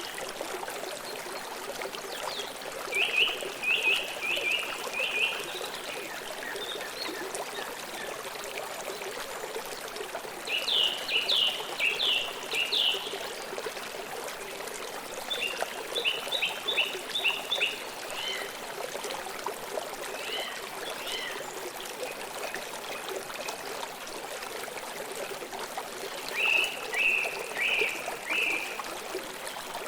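River water flowing steadily. A songbird sings four short phrases of rapid, evenly spaced down-sweeping notes, spread through the stretch.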